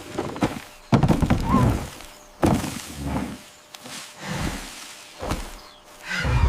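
A few dull, heavy thuds at irregular intervals, the strongest about a second in, another near two and a half seconds, and one near the end.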